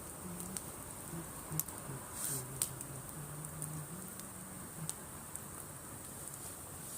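Driftwood campfire crackling: a few sharp pops and snaps over a steady hiss.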